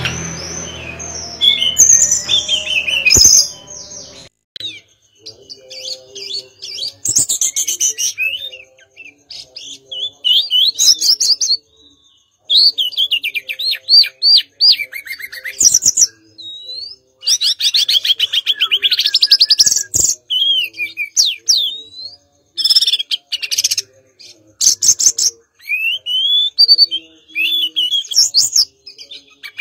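Hill blue flycatcher (tledekan gunung) singing: a run of separate phrases of fast trills and whistled sliding notes, with short pauses between them.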